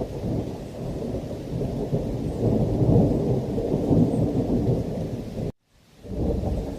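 Heavy rain with a deep rolling thunder rumble that swells about halfway through. Near the end the sound cuts out completely for a fraction of a second, then comes back.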